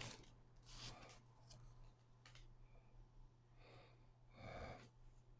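Near silence: room tone with a steady low hum and a few faint, brief handling rustles, the last of them the loudest.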